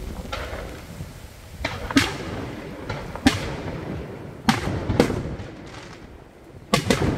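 Aerial fireworks bursting overhead: a string of loud bangs at uneven intervals, each trailing off in a short echoing rumble, with two coming close together near the end.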